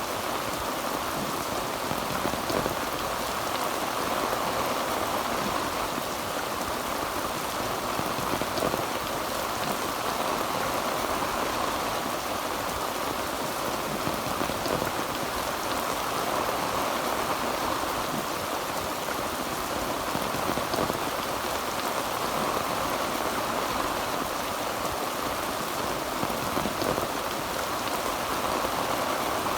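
Heavy rain falling steadily on a tin roof, an even, unbroken patter with no thunder.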